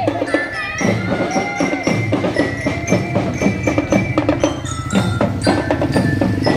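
A marching drum band playing a tune: a melody of struck metal bell notes carried over a steady beat of drums.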